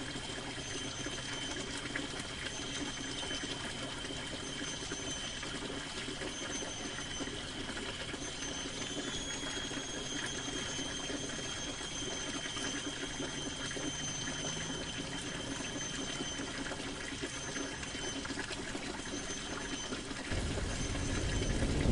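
Steady rain falling on a canvas tent, an even patter with soft reverb. Near the end a deep rumble of distant thunder begins to roll in.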